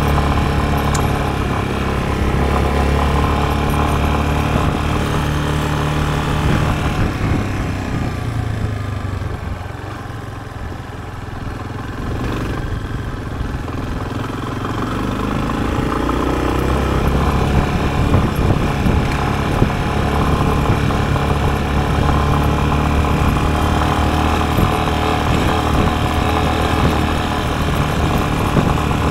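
Yamaha Serow's air-cooled single-cylinder four-stroke engine running under way. The revs drop and it goes quieter about eight seconds in, then picks up again with rising revs around fifteen seconds in and runs on steadily.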